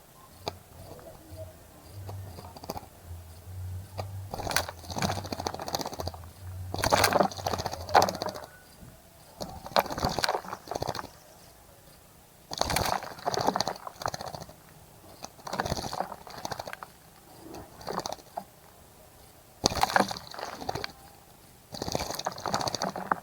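Small wild bird splashing as it bathes in a shallow bird bath: bouts of splashing a second or two long, about seven in all, with short pauses between.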